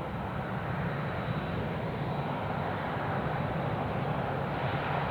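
Jet aircraft engines running, heard across an airfield as a steady rumbling rush that swells slightly near the end.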